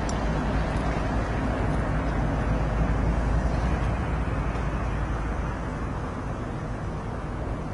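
Freight train rumbling past, a steady low rumble that eases off slightly in the last few seconds.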